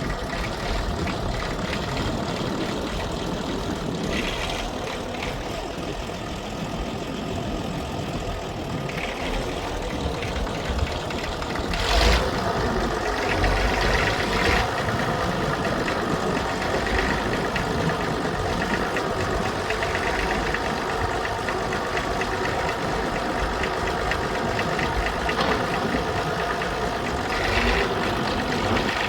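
Fordson E27N tractor's Perkins P6 six-cylinder diesel running steadily, with a sharp metallic clank about twelve seconds in and a few lighter knocks.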